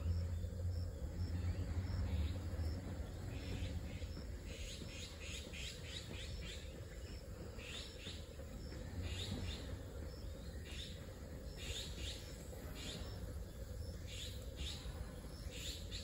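Small birds chirping: short high calls, some in quick runs of several, scattered throughout, over a low rumble that is strongest in the first couple of seconds.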